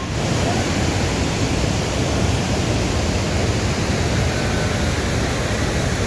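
Steady, loud rush of water with no breaks, typical of heavy rain in the rainy season.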